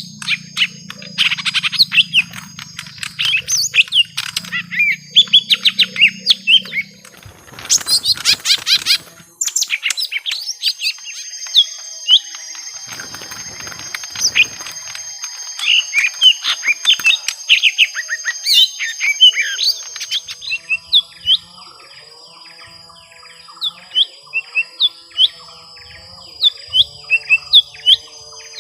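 Young lesser green leafbirds fighting: a long run of rapid, sharp chirps and chattering calls, with a brief noisy burst about eight seconds in.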